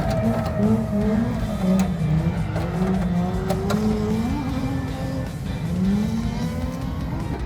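Car engine revving up and down repeatedly with tyre noise, as in drifting, with background music underneath.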